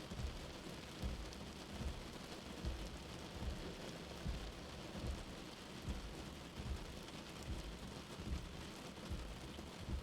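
Steady rain hiss with a light, low heartbeat thump recurring about every 0.8 seconds.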